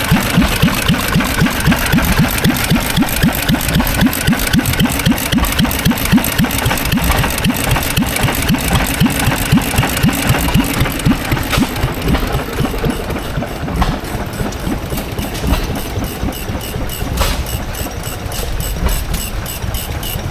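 An antique engine running at a slow, steady idle with a regular beat of about five strokes a second, growing somewhat fainter about halfway through.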